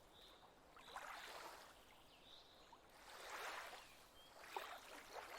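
Faint, gentle lapping of lake water, coming in a few soft swells.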